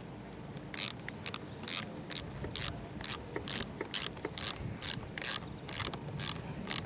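Ratchet wrench clicking in short back-and-forth strokes, about two a second, starting about a second in, as the negative battery cable clamp is tightened down.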